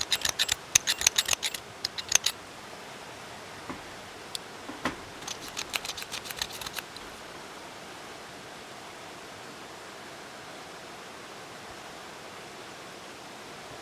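Green onions being cut: two quick runs of sharp snipping clicks, one in the first couple of seconds and another about five to seven seconds in, then only a steady faint hiss.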